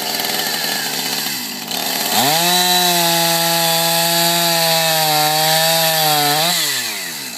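Chainsaw engine running, then revving up sharply about two seconds in and held at high speed for about four seconds. Near the end the throttle is released and the engine note falls away.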